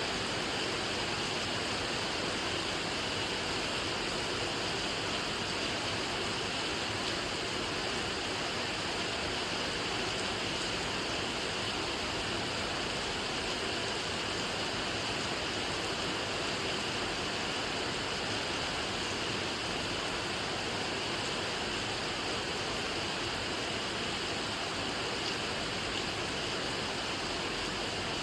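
Steady rain falling: an even hiss that holds unchanged throughout.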